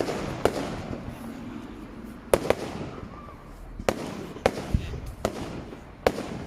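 Fireworks going off: about nine sharp bangs and cracks at irregular intervals.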